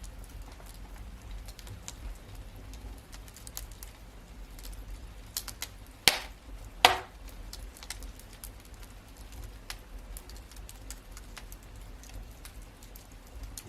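Wood fire crackling in a fireplace: a steady stream of small scattered crackles over a low rumble, with two loud pops about six and seven seconds in.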